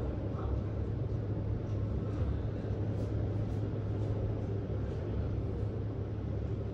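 Steady low rumble and hum of the cruise ship Mein Schiff 3 under way on departure, with a wash of wind and water noise over it.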